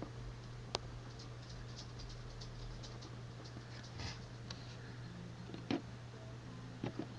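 Faint, scattered clicks and light rattling of plastic toy figures and Duplo pieces being handled, with a sharper click about a second in and a few more in the second half, over a steady low hum.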